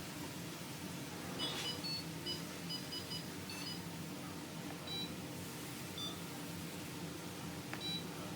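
Short electronic beeps from a Fisher & Paykel DishDrawer's control panel: a quick run of beeps between about one and a half and three and a half seconds in, then single beeps about five, six and eight seconds in, over a low steady hum.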